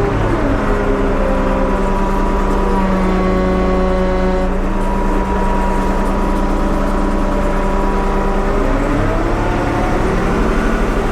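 Diesel or gas engine of a 1975 Ford 550 backhoe running, its revs dropping about a second in, holding steady, then climbing again near the end.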